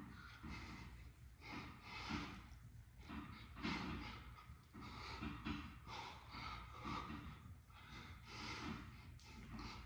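A man's heavy, labored breathing from exertion during ab exercises (leg raises): short forced breaths and gasps, about one to two a second.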